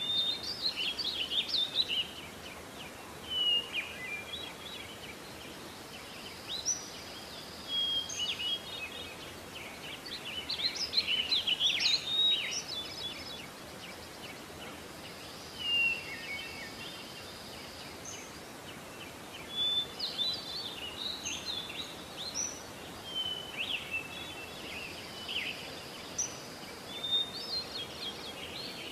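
Small birds chirping and twittering in short bursts every few seconds, over steady background noise.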